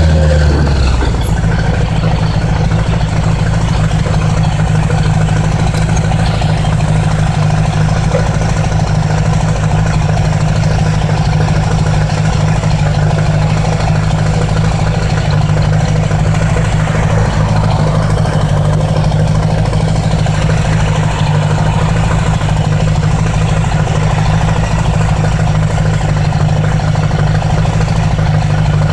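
1980s Honda Gold Wing motorcycle engine dropping in pitch in the first second, then idling steadily.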